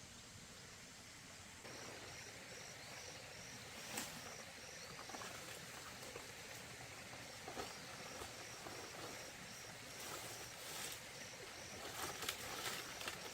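An animal's short, high chirp repeating evenly about two to three times a second, starting a couple of seconds in, pausing for about two seconds midway, then going on again. Scattered faint clicks and knocks, the sharpest about four seconds in and a cluster near the end.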